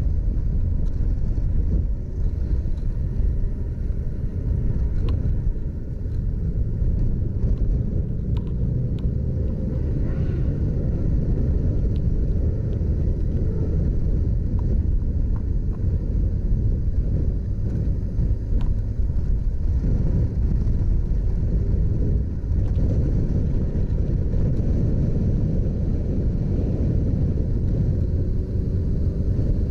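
Motorcycle engine running on the move, its pitch rising and falling a few times, under a heavy low wind rumble on the microphone.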